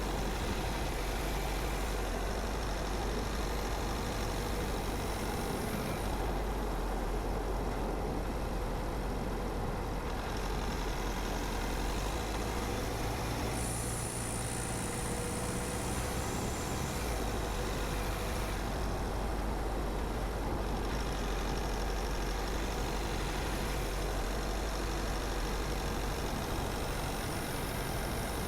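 Car driving along a road: a steady mix of engine rumble and tyre noise, with a brief thin high-pitched whine about halfway through.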